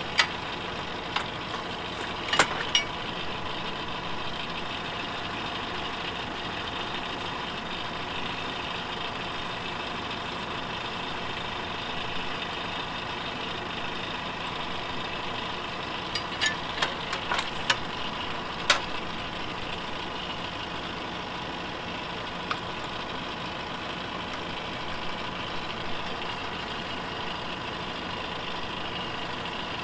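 Small tractor engine idling steadily, with a few sharp knocks as a hydraulic top link is fitted to the three-point hitch. The knocks come about two seconds in and again in a cluster around sixteen to nineteen seconds in.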